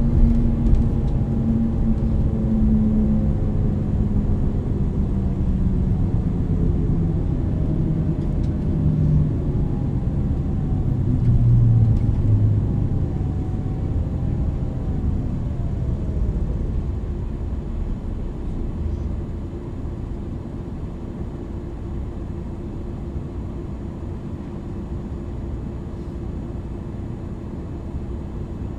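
MAN NL 323 city bus with ZF EcoLife automatic gearbox: the engine note slides down in pitch and eases off over the first dozen seconds or so, then settles into a quieter, steady running sound with a faint steady hum.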